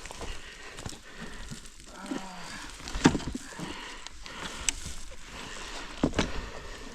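A fallen dirt-bike rider lets out a low groan of pain about two seconds in, after bruising his ribs in the crash. Scattered sharp knocks and rustling come around it.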